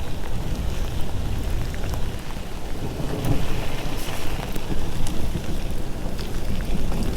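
Heavy rain pouring down in a thunderstorm, a dense hiss with scattered sharp drop ticks over a steady low rumble.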